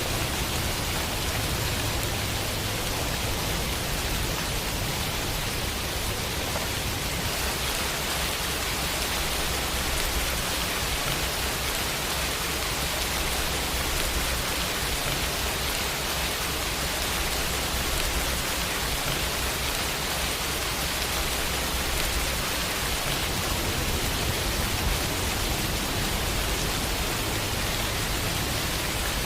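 Steady rain falling on a window pane, a dense, even hiss of drops.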